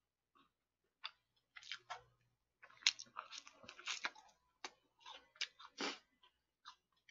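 A person chewing fried chicken: irregular crunches and wet mouth clicks, starting about a second in.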